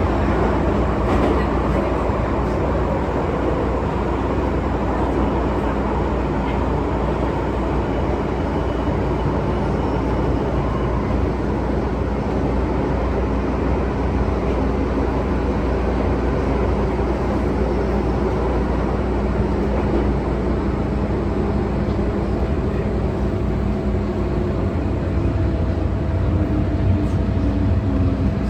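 MTR M-Train electric multiple unit running at speed, heard from inside the car: a steady rumble of wheels on rail with a low motor hum. Near the end, a low tone steps down in pitch.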